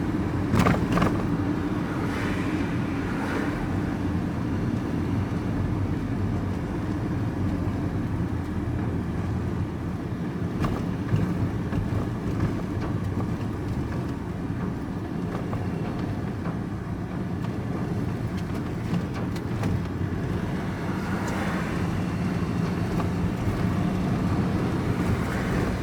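Vehicle engine and road noise heard from inside the cab while driving, a steady low hum throughout.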